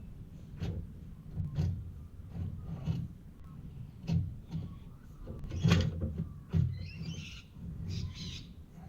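A run of irregular dull knocks and thumps, roughly one a second, the loudest a little past halfway, with a short higher rasping noise near the end.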